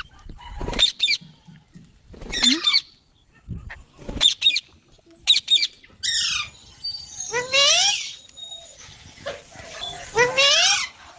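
Indian ringneck parakeets calling: short, high-pitched calls with quick sweeping notes, a few separate ones at first, then a longer run of gliding chatter from about halfway on.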